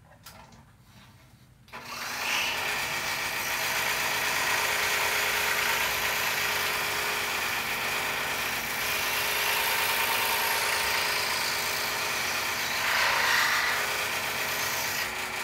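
Scroll saw switched on about two seconds in and running steadily, its fine Olson Mach Speed No. 3 blade cutting an interior cut in a poplar board; it stops at the very end.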